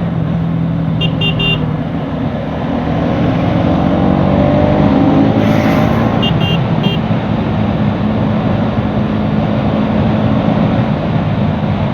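Bajaj Pulsar NS200 motorcycle's single-cylinder engine running steadily while riding, under a heavy haze of wind and road noise. Short horn beeps come in quick threes, once about a second in and again a little past the middle.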